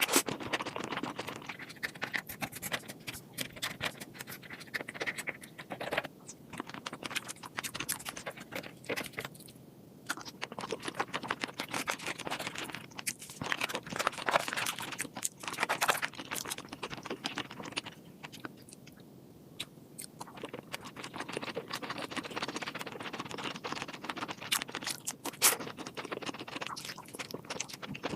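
Eating sounds of seafood: irregular clicks, crackles and scraping from chewing and handling the food, with brief quieter pauses about ten and nineteen seconds in.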